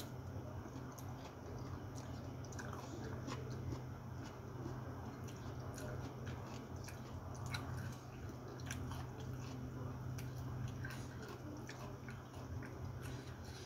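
Close-up mouth sounds of a person chewing a mouthful of food, with many small wet clicks and smacks. A low steady hum runs underneath.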